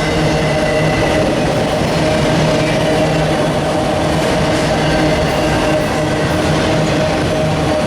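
Train rolling past close by: a steady, loud rumble with a few held tones over it.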